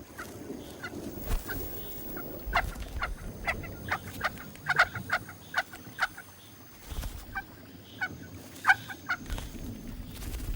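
Picathartes (rockfowl) giving short, sharp calls at the nest. The calls come in irregular clusters, several a second at times.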